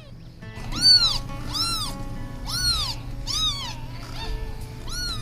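Kitten meowing five times, each short high call rising and then falling in pitch, over soft background music.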